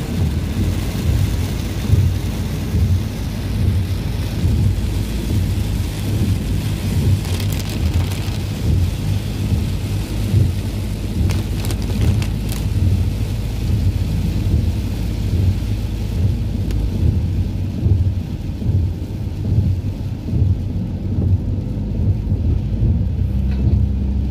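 Heavy rain on a moving car, heard from inside the cabin: a steady hiss of rain on the windscreen and roof over a deep, fluctuating rumble.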